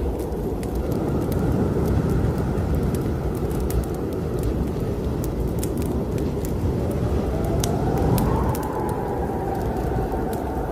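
Snowstorm wind blowing with a heavy low rush, and a whistling gust rising and falling in pitch over the second half. A wood fire in a fireplace crackles over it with scattered sharp pops.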